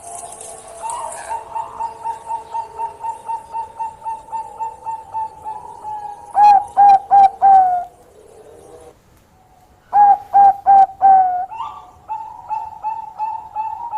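Zebra dove (Bangkok perkutut) cooing: a fast run of short clipped notes, about four a second, then louder drawn-out coos in groups of four with a pause between. A fast run starts again near the end.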